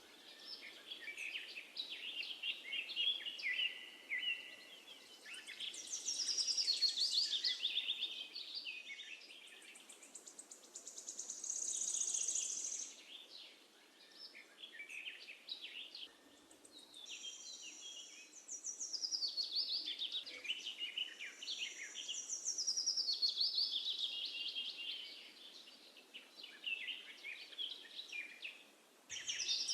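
Several songbirds singing in overlapping phrases of high chirps and trills, swelling and fading every few seconds over a faint steady background hiss.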